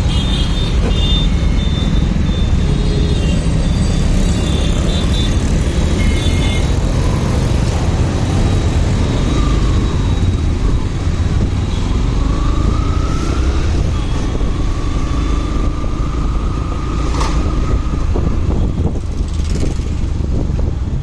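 Motorcycle running on the road in traffic, with steady low engine, wind and road noise. A faint wavering tone from another vehicle comes and goes in the middle.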